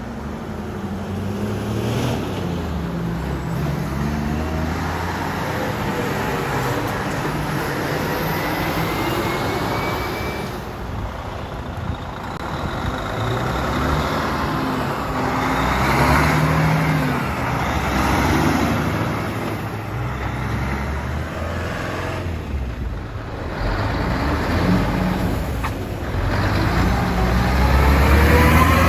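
Heavy diesel trucks driving past, their engine notes rising and falling several times, loudest near the end.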